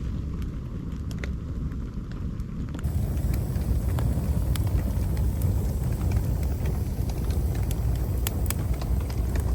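Campfire burning with scattered sharp crackles and pops over a steady low rumble. About three seconds in, the sound steps up abruptly and grows louder and fuller.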